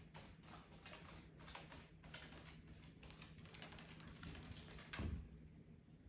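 Faint, rapid series of light clicks and taps, several a second, with a heavier thump about five seconds in.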